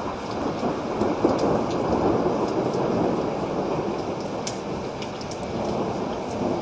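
Steady rain falling with a low, rolling thunder rumble that swells over the first few seconds and then eases off.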